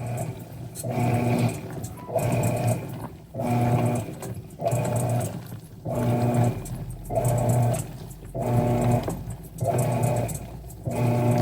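Mueller Pop 8 kg top-loading washing machine agitating its load: the wash motor hums in strokes about a second long with short pauses between, turning the wash back and forth in a regular rhythm of about one stroke every 1.2 seconds.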